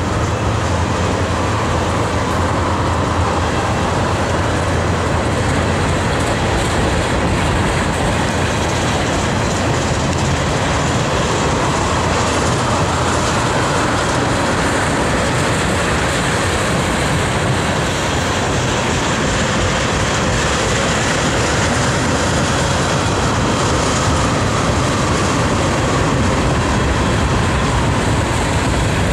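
Norfolk Southern manifest freight train's tank cars rolling past close by: a steady, loud rumble and clatter of steel wheels on the rails.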